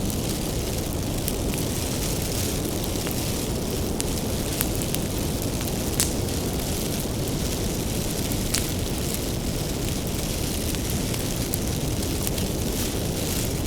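Wood bonfire burning with a steady low rush, with sharp crackles and pops from the firewood scattered throughout; the loudest pop comes about six seconds in.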